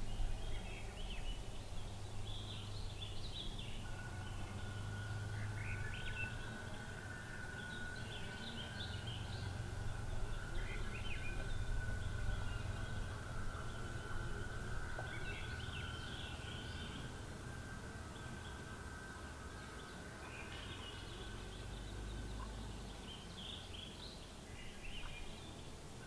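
Small birds chirping in scattered short bursts over a low steady rumble, with a thin, steady high tone joining in about four seconds in.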